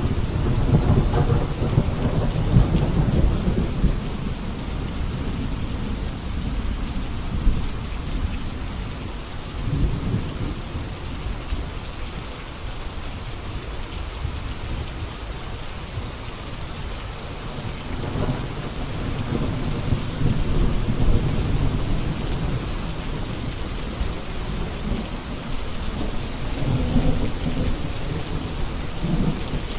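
Steady heavy rain falling, with rolls of low thunder swelling and fading several times: a long rumble at the start, another about a third of the way through, a longer one past the middle and a last one near the end.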